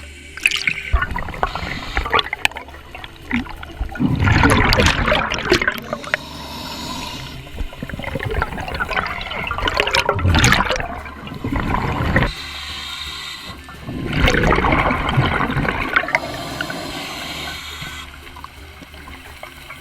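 Scuba diver's regulator underwater: three loud rushes of exhaled bubbles a few seconds apart, with quieter breathing hiss between them.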